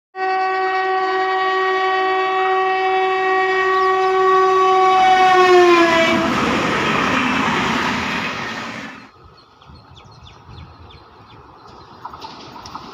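Indian Railways WAP-4 electric locomotive horn sounding one long blast of about six seconds, its pitch dropping near the end, followed by the loud rush of the train passing. The noise falls away sharply about nine seconds in, leaving quieter rail clicks.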